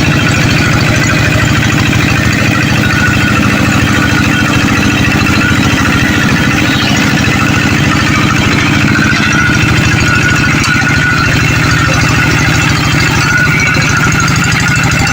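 Tractor engine running steadily, with a fast, even pulse.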